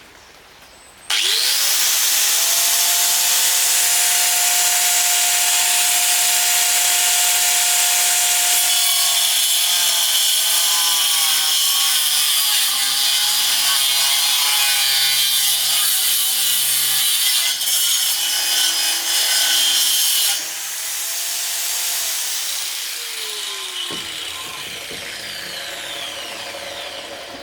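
Electric power saw starting about a second in and spinning up to speed, then cutting through wood with its pitch wavering under load. About twenty seconds in it is released and winds down with a falling whine.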